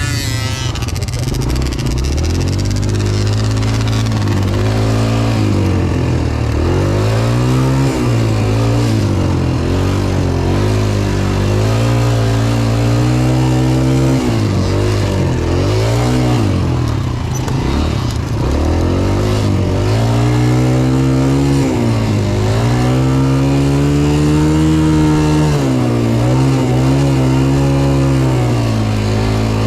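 Dirt bike engine being ridden on a motocross track, its revs repeatedly climbing and dropping as the rider opens and closes the throttle and changes gear.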